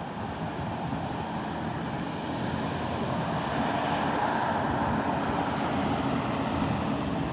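Boat engine running on the channel, a low hum under wind noise on the microphone and water wash, growing a little louder about halfway through.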